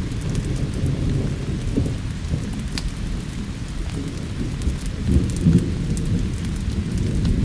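Rolling thunder rumbling low and continuously, swelling about five seconds in, over steady rain, with scattered sharp crackles from a wood fire.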